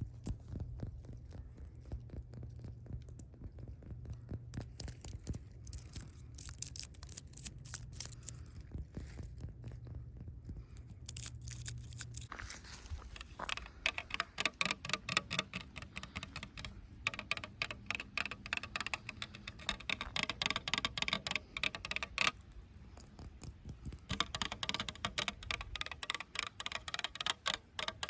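Rapid fingernail tapping and scratching on a hard surface, dozens of small ticks a second. A steady low hum sits underneath at first and stops about twelve seconds in, after which the scratching is louder and denser.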